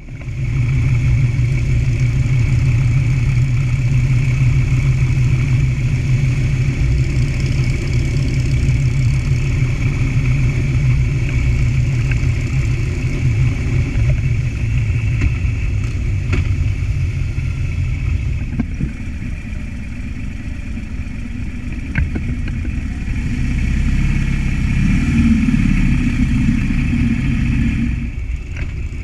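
Motorcycle engine running at road speed with wind noise over the microphone. The engine note eases off about two-thirds of the way through, then picks up again near the end.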